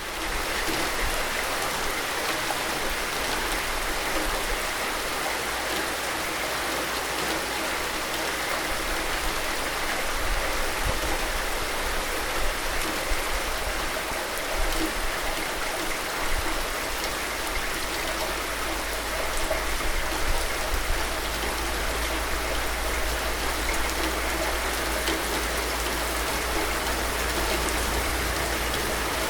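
Steady rain falling, an even hiss of dense drops with a low rumble underneath.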